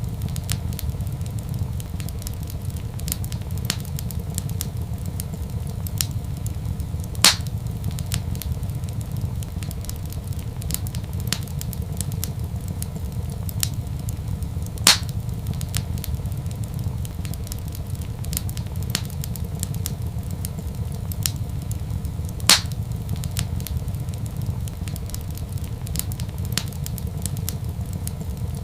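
Wood fire crackling in a fireplace over a steady low rumble, with small snaps throughout. Three louder pops come at even intervals of about seven and a half seconds.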